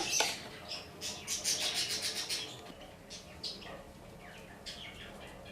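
Birds chirping: a quick run of high chirps, then a few single chirps that drop in pitch.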